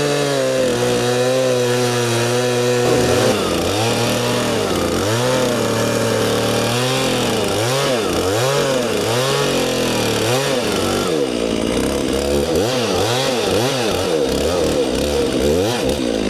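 Large Stihl chainsaw at full throttle, bucking a poplar log into lengths. It holds a steady high note for about three seconds, then its pitch repeatedly dips and recovers, about once a second, as the chain loads up in the cut.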